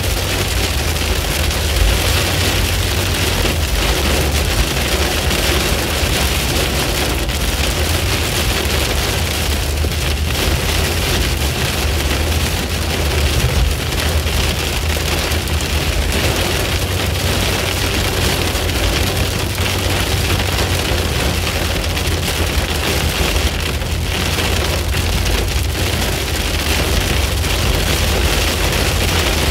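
Heavy rain pelting a car's windshield and roof, heard from inside the moving car, over a steady low rumble from the car on the road.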